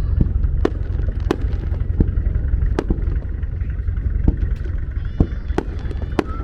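Aerial fireworks exploding, about eight sharp bangs at irregular intervals over a continuous low rumble.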